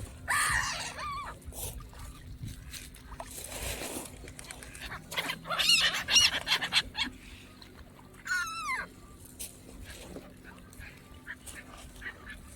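Birds calling in loud, honking calls: a burst of calls just after the start, a louder cluster of wavering calls around six seconds in, and one call falling in pitch a little past eight seconds.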